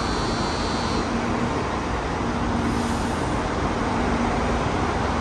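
Shinkansen bullet train running along a station platform: a steady, loud rushing rumble of wheels and air.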